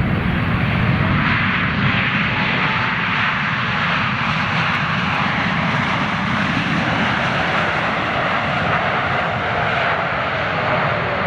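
Airliner engines running loud and steady at takeoff power, with a faint whine that slowly falls in pitch during the second half.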